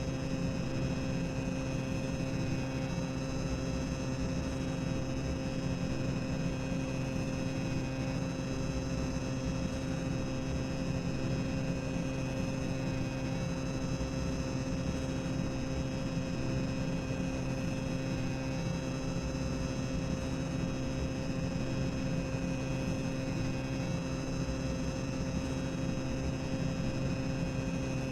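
Boiler-room sound-effect ambience: a steady machinery rumble with a constant low hum and a few held higher tones, unchanging throughout.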